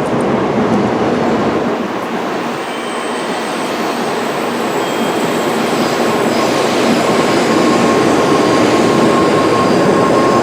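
Tokaido Shinkansen train running along the station platform, a steady rushing noise that grows louder through the second half, with a faint steady whine coming in about halfway.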